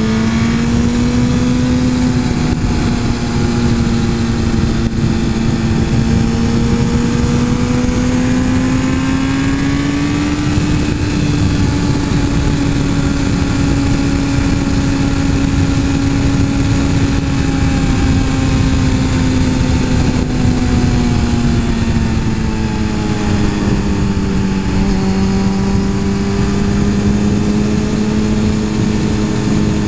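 Suzuki GSX-R 1000 superbike's inline-four engine running at a fairly steady speed while riding, its pitch rising slightly about a third of the way in and easing back down later. Wind rushes underneath it.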